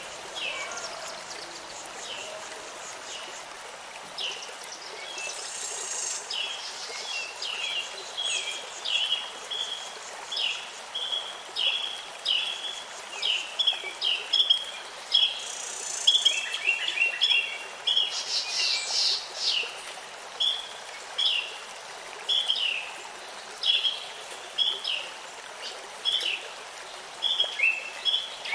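Birds calling: a steady run of short chirps, about one or two a second, with a few higher, buzzier calls mixed in, over a faint steady hiss.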